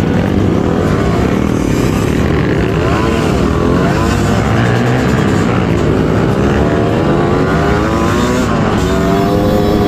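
Trail motorcycle engine running as it is ridden, its pitch rising and falling several times with the throttle over a steady rumble.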